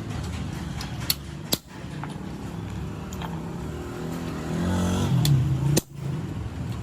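A motor vehicle engine runs steadily and swells with a brief rise in pitch about four to five seconds in. A few sharp knocks sound over it.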